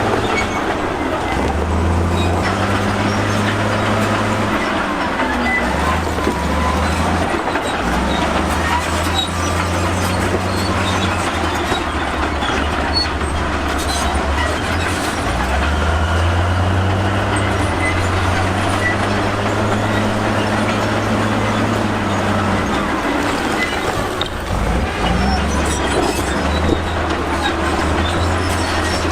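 Crawler bulldozer's diesel engine working under load, its note stepping up and down every few seconds, with the steel tracks clanking and squealing as it pushes rock.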